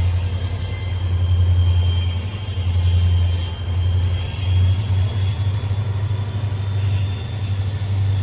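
Diesel freight train passing, a heavy low rumble with steady high-pitched wheel squeal from the railcars coming and going over it.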